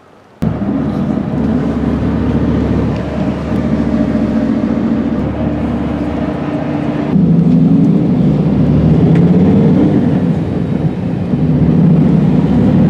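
Train running, a loud steady low rumble with a motor hum that shifts in pitch about seven seconds in. It starts abruptly half a second in.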